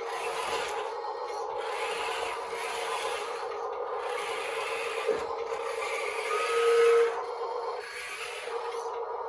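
Hydraulic pump of an RC construction model whining steadily, with a scraping hiss that comes and goes, rising to a louder whine for about half a second near two-thirds of the way through.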